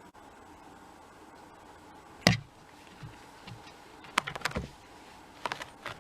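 A cat moving about on a cat tower: one sharp thump a little over two seconds in, then a few light knocks and two quick flurries of clicks and knocks.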